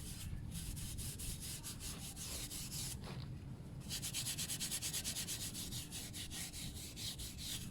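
Brillo steel-wool pad scrubbing a stainless-steel motorcycle exhaust pipe coated in toilet-cleaner paste, in quick, even back-and-forth strokes that ease off briefly about three seconds in.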